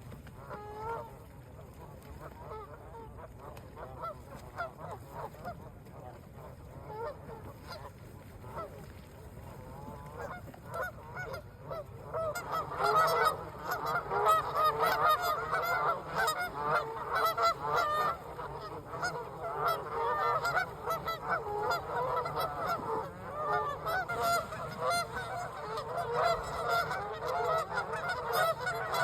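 A large flock of geese honking: scattered calls at first, swelling into a dense, louder chorus of many overlapping honks about twelve seconds in.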